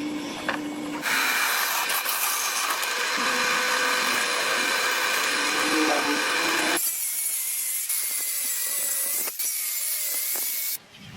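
A power tool running steadily, its sound changing to a higher, thinner hiss about seven seconds in and stopping just before the end.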